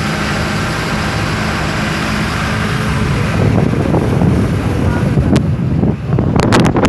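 Car moving slowly over asphalt thickly covered with hailstones, heard inside the cabin: a steady hum of engine and tyre noise that turns into a rougher rumble, then sharp cracks and crunches from about five seconds in.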